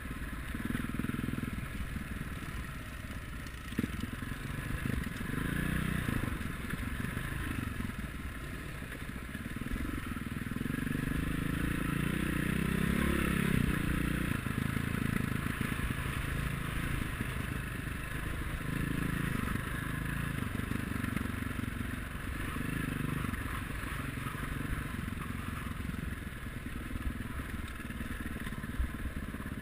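Motocross motorcycle engines running and revving, their pitch rising and falling as the bikes ride; loudest about halfway through.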